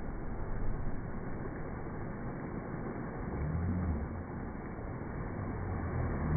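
Steady, muffled rushing noise, with faint low hums about halfway through and again near the end.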